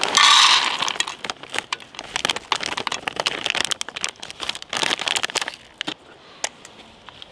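Crinkling and rustling of camping gear being handled during tent setup, with many scattered clicks and knocks; loudest in a burst at the very start, thinning out near the end.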